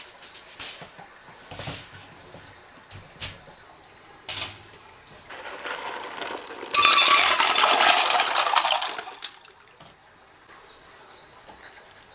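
Water running or being poured into a vessel for about three seconds, starting loudly about seven seconds in, amid light clicks and clinks of handled utensils.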